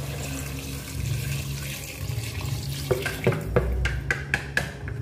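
Coconut water pouring from a plastic basin into an aluminium pot of duck pieces, then a quick series of sharp metal clinks from about three seconds in as the pot's aluminium lid is handled over the pot.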